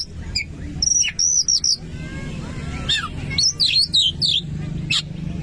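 Oriental magpie-robin (kacer) singing: short bursts of sharp, quickly changing whistled notes, in two clusters of phrases, with a steady low hum underneath.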